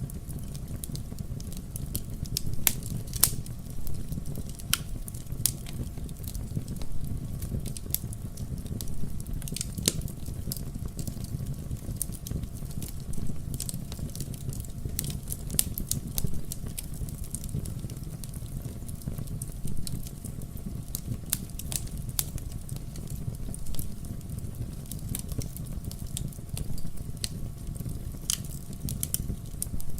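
Fire burning in a fireplace: a steady low rush of flames with frequent irregular crackles and sharp pops.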